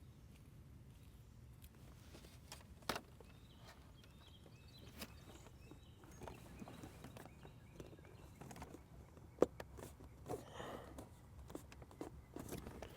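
Faint handling noises of small parts and wiring: scattered clicks and taps, two sharper knocks about 3 and 9 seconds in, and some rustling, over a low steady hum.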